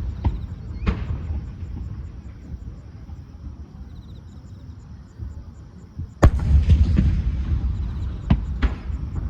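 Aerial fireworks shells bursting: two sharp reports in the first second, then a loud burst about six seconds in that trails into a long low rumble, and two more cracks near the end.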